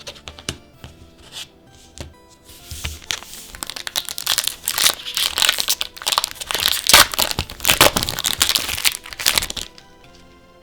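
Plastic and foil wrapper of a trading-card booster pack crinkling and tearing as it is opened by hand. A few light ticks come first, then a dense run of crackling builds from about two seconds in and stops sharply near the end.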